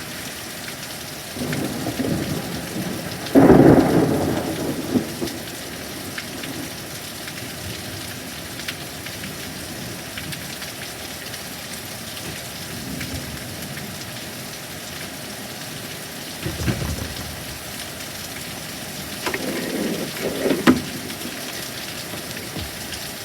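Steady heavy rain with thunder. A close clap comes sharply about three seconds in and rolls off over a couple of seconds; shorter claps follow about sixteen seconds in and again near the end.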